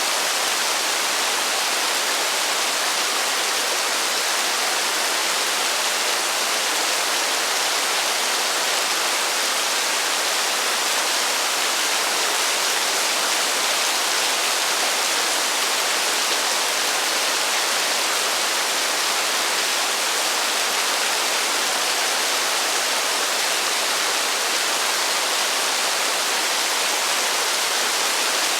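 Heavy rain falling as a steady, even hiss, with no thunder and no single drops or gusts standing out.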